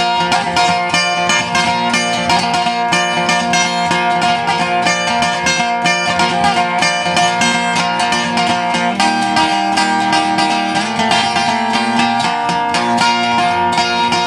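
Acoustic guitar playing a fast picked instrumental break in a folk ballad, with notes in quick succession.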